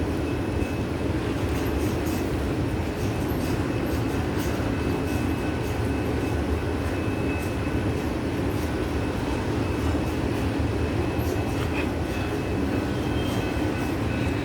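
Freight cars of a manifest train rolling past at moderate speed: a steady rumble of steel wheels on rail, with faint thin high squeal tones and light scattered clicks over it.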